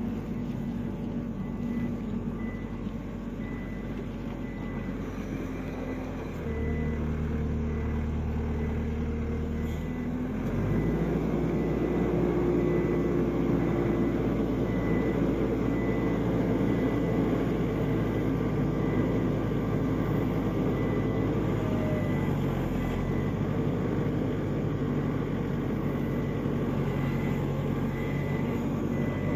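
Diesel engine of a New Holland skid steer running under load, revving up about six seconds in and higher again about ten seconds in, then holding. A faint high beep repeats steadily over it.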